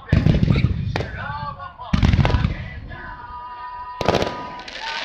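Fireworks shells bursting overhead: three heavy booms about two seconds apart, with live music and a singing voice carrying on between them.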